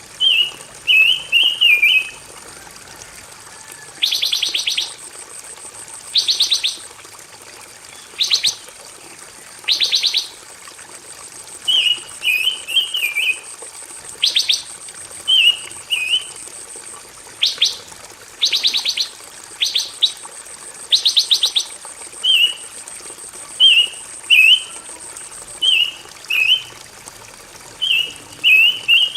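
Pancawarna songbird singing: short warbling chirp phrases repeated over and over, broken by rapid buzzy trills about every one to three seconds. A thin, steady high hiss sits behind the song.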